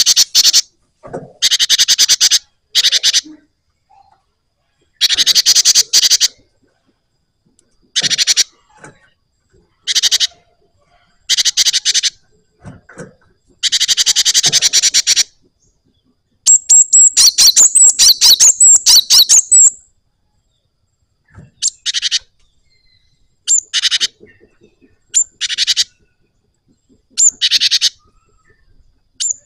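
Cinereous tit (gelatik batu) singing in a series of short bursts of fast rolling trills, each about a second or less with pauses between. One longer rattling run of about three seconds comes near the middle.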